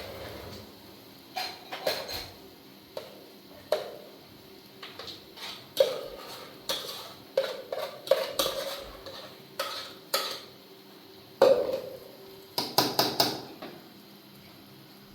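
Irregular clinks and knocks of hard objects being handled, a dozen or more spread out, with a quick cluster near the end, over a faint steady hum.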